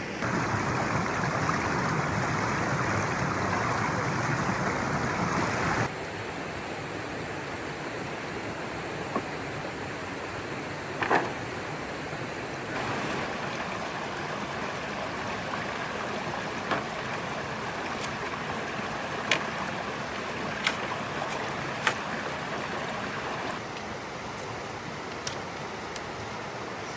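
Steady rush of flowing water, louder for the first six seconds and then dropping abruptly to a lower level, with a few sharp clicks scattered through it.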